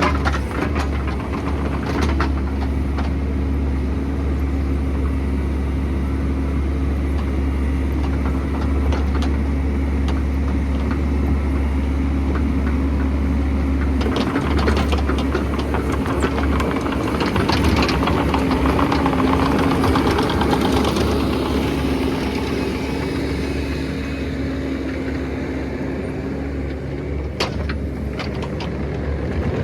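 Excavator's diesel engine running steadily, with a strong low drone. It grows louder for a few seconds past the middle as it works harder, and sharp knocks and clatters come now and then.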